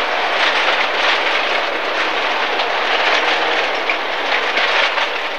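Cabin sound of an MG ZR rally car at speed on a gravel stage: its 1.4-litre four-cylinder engine running hard under a steady dense rush of tyre noise and gravel rattling and pinging against the underbody.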